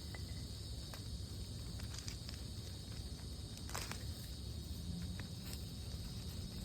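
Steady chirring of insects over a low outdoor rumble, with a handful of small, sharp clicks scattered through it.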